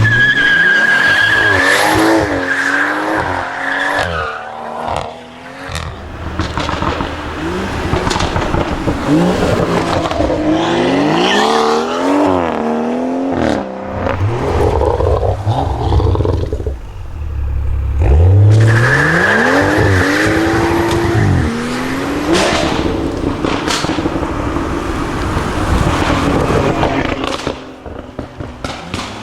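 Tuned BMW B58 turbocharged straight-six engine revved hard, its pitch rising and falling again and again. Sharp exhaust pops and bangs crack in between. Tyres squeal near the start and again about two-thirds of the way through, as in burnouts or a slide.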